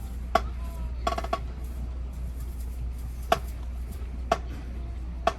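Sharp percussion clicks with a short ring: a single click, a quick run of about four about a second in, then single clicks roughly a second apart, over a steady low rumble.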